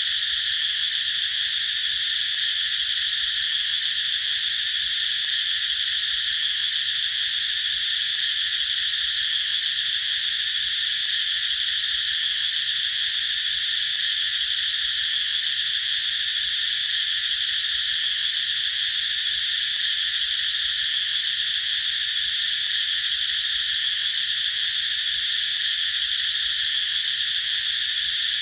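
Cicadas singing in a continuous, steady high-pitched chorus with no pauses.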